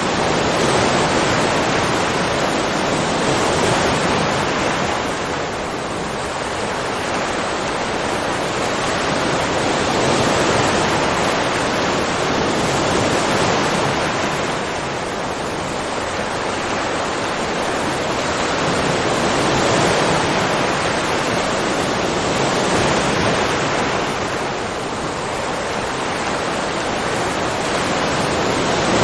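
Ocean surf washing in a continuous hiss that swells and eases slowly, about once every nine or ten seconds.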